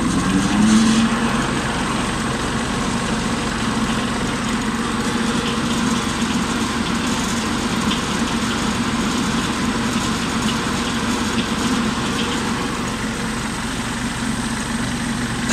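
Kubota tractor engine running with the PTO engaged, driving a three-blade finishing mower. The mower winds up with a rising whine over the first second, then runs at a steady pitch.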